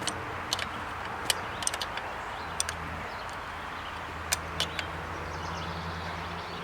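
Irregular sharp metallic clicks and taps of a wrench working a fuel-line fitting onto a diesel lift pump, over a steady low hum.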